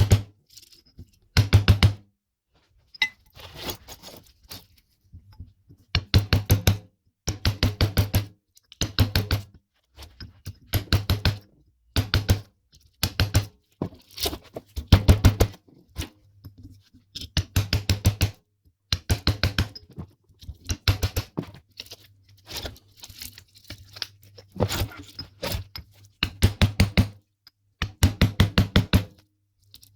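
Short runs of rapid knocks, several a second, repeating with short pauses between runs, while a microwave oven is being taken apart.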